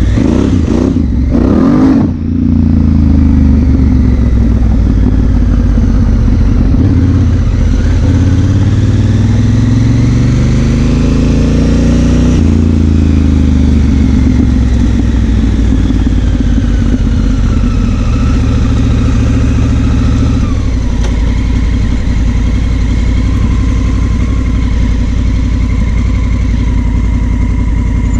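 Honda Africa Twin CRF1000L's parallel-twin engine under way, pitch climbing through the gears with drops at shifts about two and twelve seconds in. After that it runs at a steadier pitch, easing down once more near the end.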